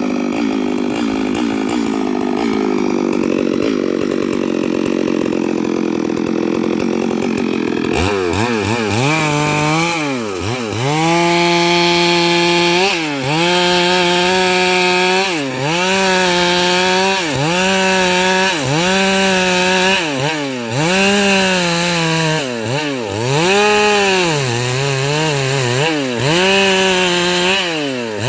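Stihl MS 382 two-stroke chainsaw cutting lengthwise into a eucalyptus log, running steadily under load for the first eight seconds or so. After that the engine revs up, holds at high speed and drops back, over and over, about every two seconds.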